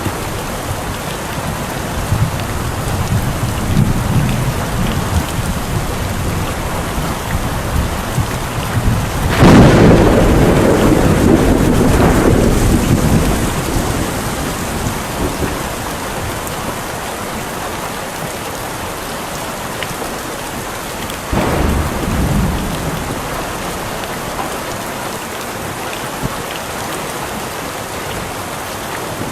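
Steady heavy rain with thunder: a loud clap and rumble about a third of the way in that dies away over several seconds, and a shorter, weaker rumble about two-thirds of the way in.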